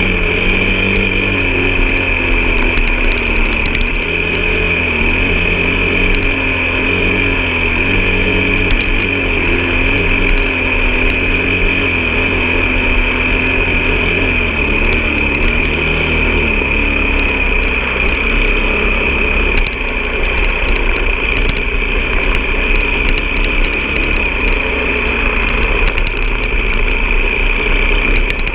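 An off-road vehicle's engine running under varying throttle, its pitch wavering for the first half and then holding steadier, under a steady high whine and frequent small clicks and knocks.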